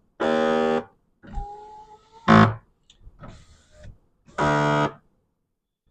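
Two loud, steady electronic tones about four seconds apart, each about half a second long. Between them the Smart car's power window motor whines faintly for under a second and a thunk follows.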